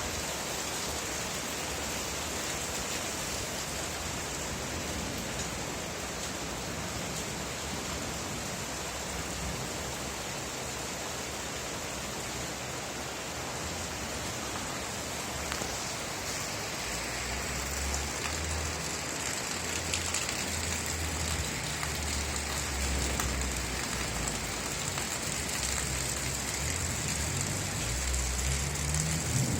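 Steady, even hiss of real rain falling on surfaces. A low, uneven rumble comes in about halfway through.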